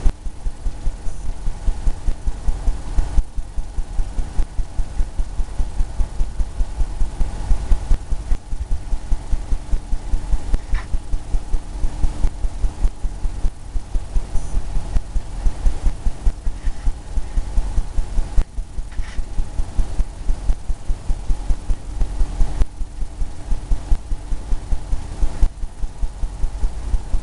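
Paintbrush dabbing and scrubbing on a canvas, a quick steady run of low thumps, about three to four a second.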